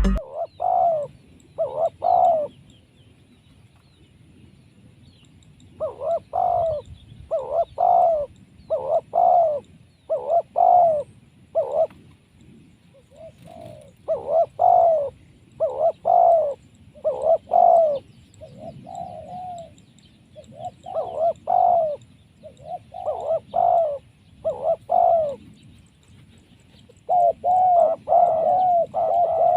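Spotted dove cooing in repeated phrases of two to four coos. There is a gap of a few seconds after the first phrase, and the coos come thick and fast near the end.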